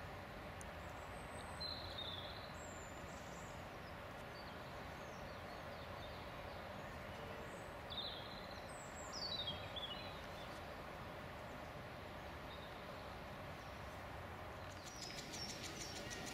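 Steady outdoor background noise with a few high bird chirps: a short run about two seconds in and a longer run of falling chirps around eight to ten seconds in. A rapid ticking starts near the end.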